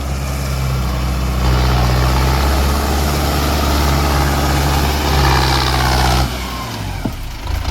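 Mahindra tractor's diesel engine running under load. It grows louder about a second and a half in and eases off near the end.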